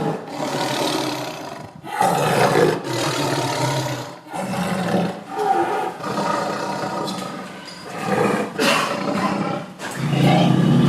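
Tiger roaring, several loud roars one after another with short breaks between them.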